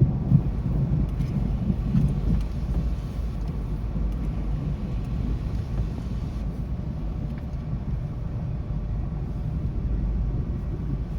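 Low rolling rumble of thunder, loudest in the first couple of seconds and trailing on as a steady deep rumble.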